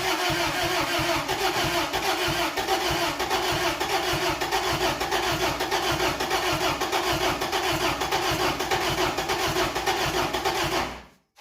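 Starter cranking the 1992 Isuzu pickup's carbureted engine, a fast even chug over a steady whine, without catching, until it cuts off abruptly near the end. It is a no-start after years of sitting, which the owners put down to vacuum leaks.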